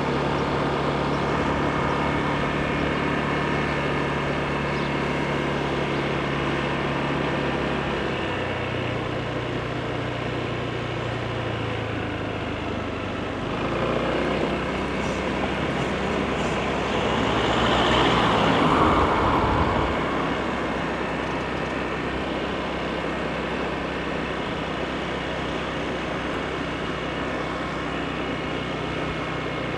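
Honda PCX scooter's single-cylinder engine running steadily under way, its note dropping about a quarter of the way in as it slows. A louder rushing swell rises and fades a little past the middle.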